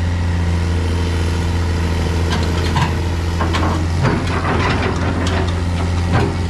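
Heavy diesel truck engine running with a steady low drone, with a few knocks and rattles about halfway through.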